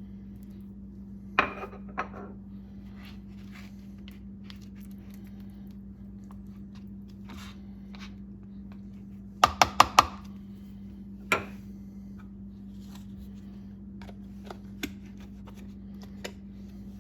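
Kitchen utensils clinking and knocking against dishes: two knocks a second and a half in, a quick run of four clinks near the middle, and one more shortly after, with a few faint ticks between. A steady low hum runs underneath.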